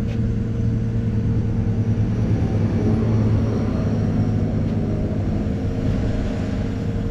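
Excavator's diesel engine running steadily under digging load, swelling slightly about halfway through.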